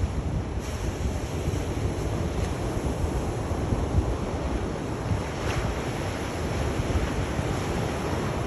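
Sea surf: waves washing in as a steady, unbroken rush, with wind buffeting the microphone underneath.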